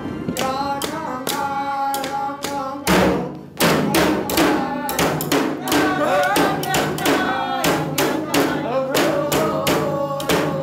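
Traditional Eskimo drum-and-song music: a steady beat of about two to three drum strikes a second under singing voices. A loud hit and a brief break come about three seconds in, then the drumming and singing resume.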